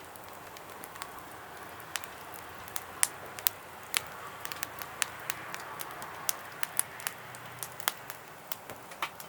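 Wood fire burning in a fire pit, crackling with irregular sharp pops over a faint hiss.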